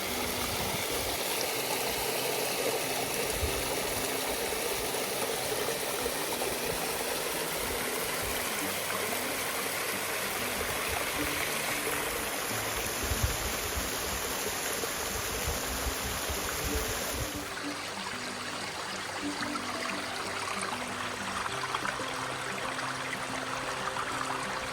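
Steady rushing of stream water, with some low bumps of handling or wind on the microphone about halfway through.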